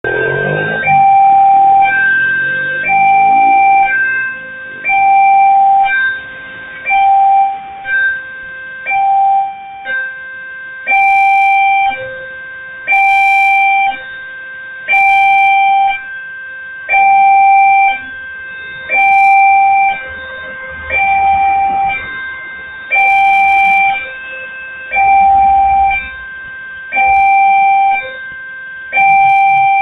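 Electronic railway level-crossing warning alarm sounding over and over: a pure two-tone chime, roughly one note a second, with an even on-off rhythm that does not change.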